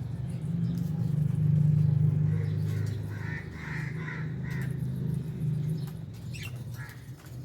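Lovebirds chirping: a cluster of calls in the middle and a few sharp chirps near the end, over a steady low rumble that swells about a second or two in.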